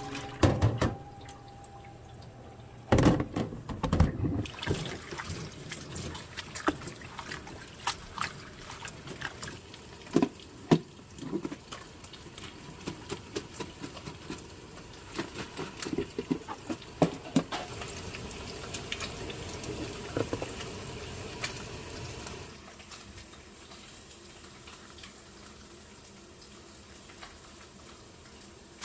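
Tap water running into a kitchen sink while something is rinsed, with scattered knocks and clatters of utensils or a colander. The running water stops about three-quarters of the way through, leaving a few light clicks.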